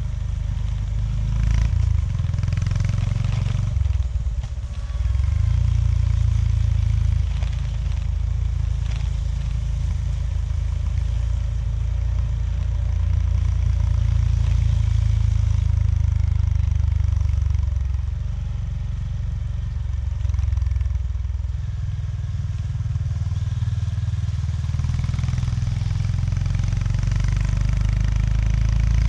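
Honda GB350S's air-cooled single-cylinder engine running under way, its note dropping briefly about four seconds in and easing off for a while later before picking up again near the end.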